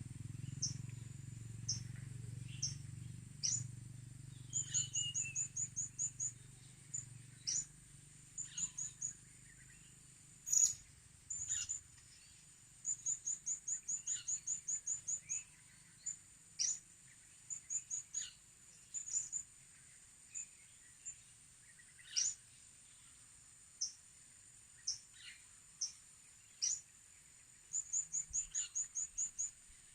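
Blue-crowned hanging parrots (serindit) calling: short, high, sharp chirps, some in fast runs of about ten a second, others single squeaks sweeping downward, spaced irregularly. A steady high-pitched drone runs underneath.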